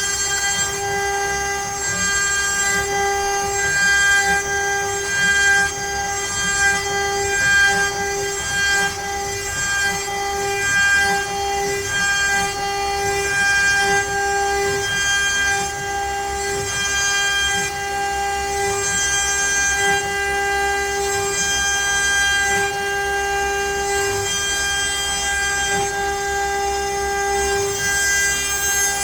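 CNC router spindle running with a steady high whine while its bit cuts letters into pine at a feed rate of 1900. The whine swells and fades every second or so as the bit moves through the cuts.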